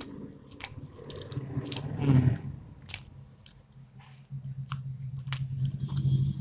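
Close-up chewing of buttered pav with paneer bhurji: wet mouth clicks and smacks, with a low hum underneath that grows stronger in the second half.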